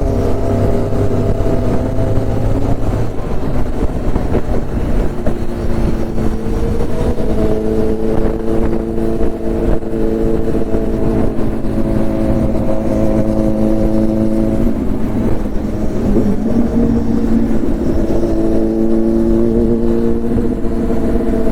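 Motorcycle engine and exhaust running at a steady cruising speed, with heavy wind rush from riding. The engine note dips briefly about fifteen seconds in and then steadies again.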